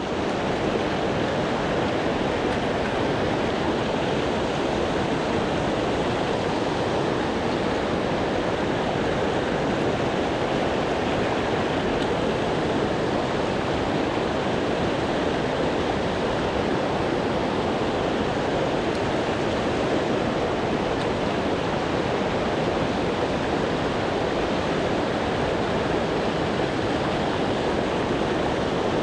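Steady rush of mountain-stream water pouring over a large weir, with the river running high after a typhoon.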